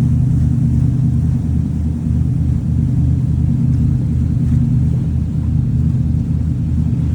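Steady low engine drone heard from aboard a large vehicle, with a slight even pulsing and no changes.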